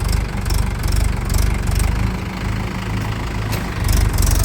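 Tractor diesel engine running hard, with a strong, steady low throb.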